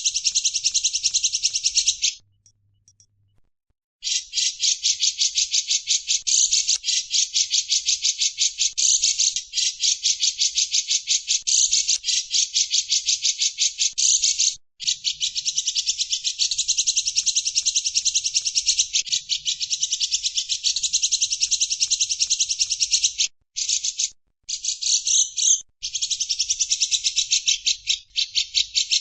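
Recorded songbird chirping from a masteran track mixing grey-cheeked bulbul (cucak jenggot) and Eurasian tree sparrow (burung gereja): a rapid, dense run of high chirps with a short pause about two seconds in and brief breaks near the end.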